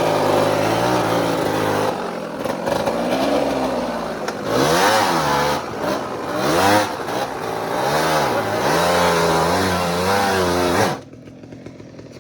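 Dirt bike engine revving hard, its pitch climbing and falling again and again as the throttle is worked. About eleven seconds in it drops off abruptly to a much quieter sound.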